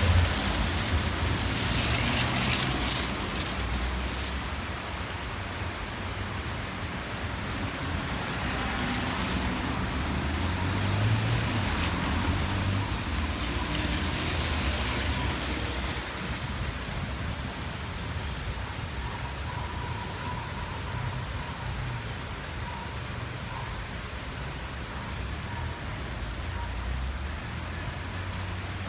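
Heavy rain pouring steadily, swelling louder a few times, with a low rumble underneath.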